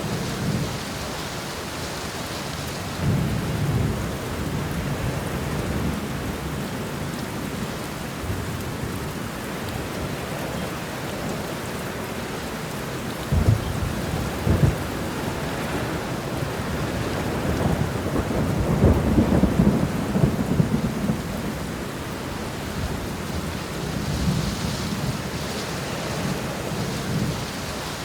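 Steady heavy rain with rolls of thunder: a rumble a few seconds in, two sharp cracks around the middle, then a longer, louder rumble and a weaker one near the end.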